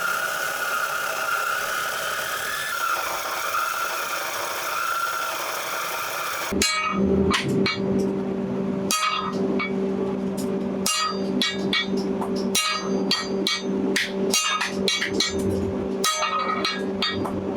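A power tool whirs steadily for about six seconds, then stops abruptly. Repeated irregular hammer blows on steel follow over a steady hum.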